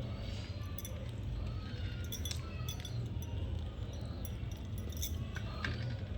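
A person eating roti and vegetable curry: chewing with scattered small clicks and clinks, over a steady low hum.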